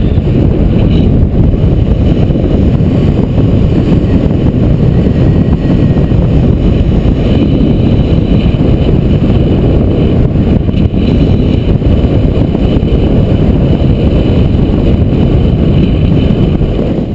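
Strong wind buffeting the microphone: a loud, steady, low rush of air.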